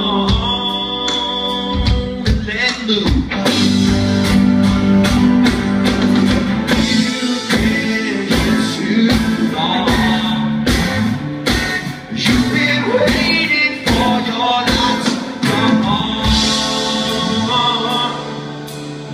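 Live rock band playing an instrumental stretch of the song, with drums, guitars and bass under some singing. The music eases off a little near the end.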